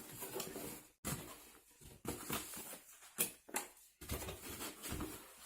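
A cardboard box being opened and its packaging handled: scattered rustles, scrapes and light knocks, broken by a few short silent gaps.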